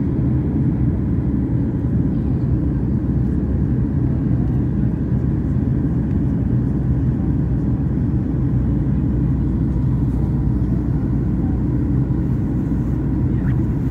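Steady low roar of a Boeing 737-800 airliner heard from inside the passenger cabin: jet engines and airflow running at an even level.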